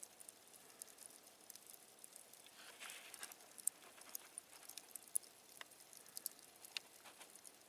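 Quiet wood campfire crackling, with irregular sharp pops and a brief soft rush of noise about three seconds in.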